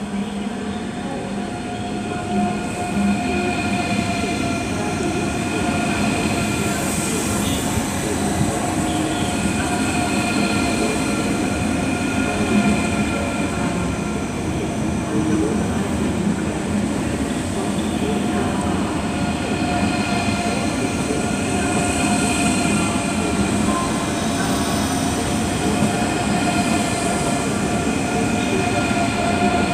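A Deutsche Bahn ICE 3 high-speed train (class 403), two units coupled, rolling into the platform and past at low speed. A steady rumble of wheels and running gear grows louder over the first few seconds, with several steady high whining tones above it.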